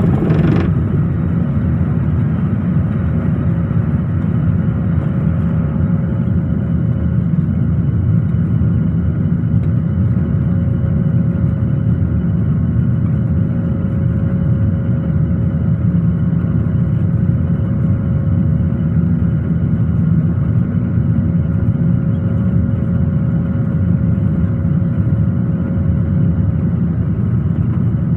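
Steady cabin noise of a jet airliner, its engines and rushing air heard from inside the passenger cabin, with a constant hum over a deep, even rumble.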